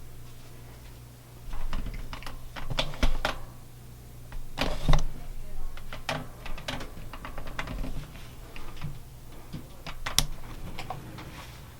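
Laundry being loaded into an Admiral top-load washing machine: irregular clicks and knocks, a few louder thumps, over a steady low hum.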